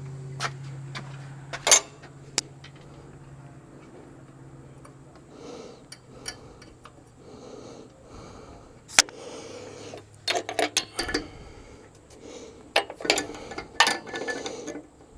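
Metal tools and parts clinking and knocking during hand work on a semi truck's air suspension, a scatter of sharp knocks with quick runs of clicks about two-thirds of the way through and near the end, over a low hum that fades after the first few seconds.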